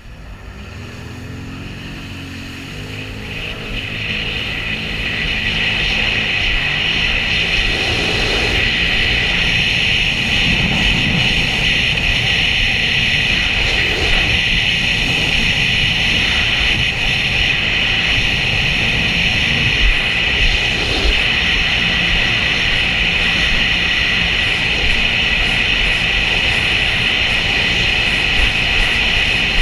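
Sea-Doo jet ski's engine and jet pump running under way. It builds up over the first several seconds as the craft accelerates, then holds steady at speed.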